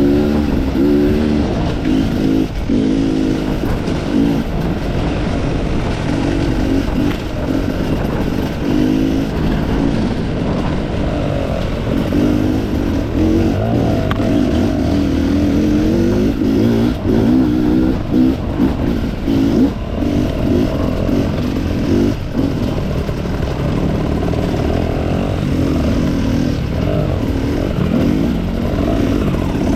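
Enduro motorcycle engine revving up and down continually as the throttle is worked, with a few sharp knocks and clatter from the bike.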